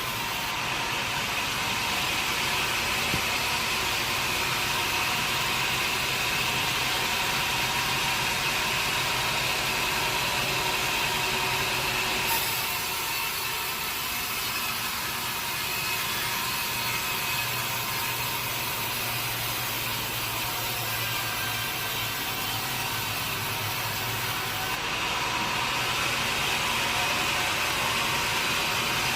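Sawmill saw and its motor running steadily while cutting a teak log, a continuous mechanical whine over a low hum. The sound shifts abruptly twice, about 12 seconds in and again about 25 seconds in.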